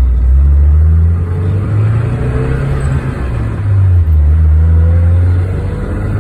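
Alvis TD21's three-litre straight-six engine driving the car along the road, its note rising and falling, with dips about a second in and again near four seconds.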